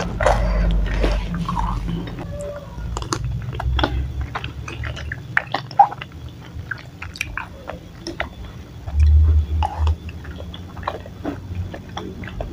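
Close-up chewing of chewy tapioca-starch balls (bakso aci), with scattered light clicks of a wooden spoon and fork against a ceramic bowl. There is a louder dull low thud about nine seconds in.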